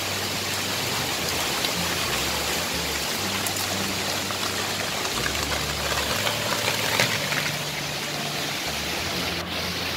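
Steady rain falling on a balcony and potted plants, with a few sharper drops striking close by.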